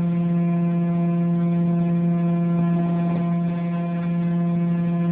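RC model airplane's motor and propeller running at a steady throttle: one loud, even, buzzing tone that holds the same pitch throughout.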